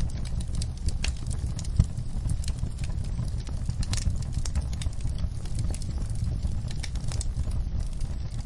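Fire crackling: irregular pops and snaps over a steady low rumble, with one sharper pop about two seconds in.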